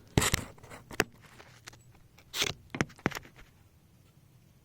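Handling noises: a few separate clicks, knocks and light rattles as things are moved and set down, then quiet.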